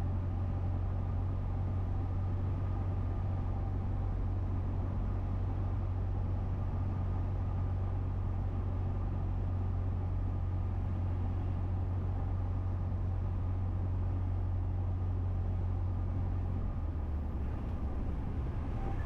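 Cessna 172's engine and propeller droning steadily, heard from inside the cockpit on final approach; the drone shifts slightly near the end.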